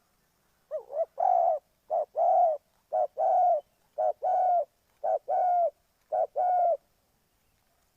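Spotted dove cooing: six two-part phrases, each a short note followed by a longer coo, about one a second.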